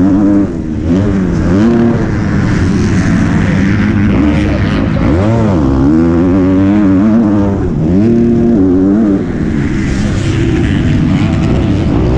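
Motocross bike engine revving hard, its pitch repeatedly climbing and falling through the throttle and gear changes. The throttle is shut off briefly about half a second in and again around nine seconds in.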